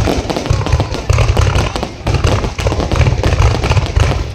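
Fireworks display going off in a dense, continuous barrage of sharp bangs and crackling pops, with deep booms underneath.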